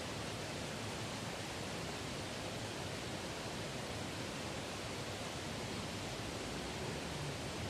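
Steady, even rushing noise with no separate sounds in it, unchanging throughout.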